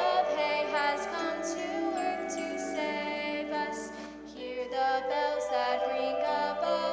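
Singing: voices singing a song with music, the sung words' hissing consonants recurring through it.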